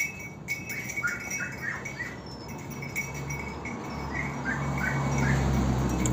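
A bird chirping: short falling notes in quick runs of three or four, repeated a few times. A low steady hum rises in level in the second half.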